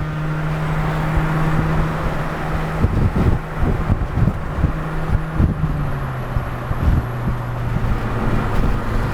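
Honda Civic Si four-cylinder engine running steadily at highway speed, heard from inside the cabin with road and wind rumble. The engine note drops a little about six seconds in and settles to a steady cruise at about 3,500 RPM.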